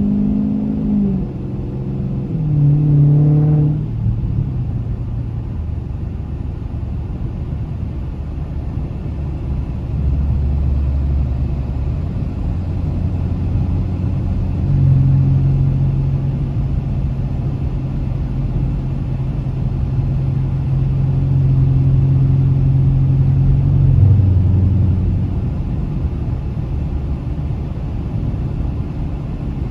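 Dodge Challenger Scat Pack's 392 HEMI V8 (6.4 litres) running on the road, a short rev about three seconds in. It settles into a steady drone that steps to a higher held note from about fifteen seconds and drops back near twenty-four seconds, over a haze of road noise.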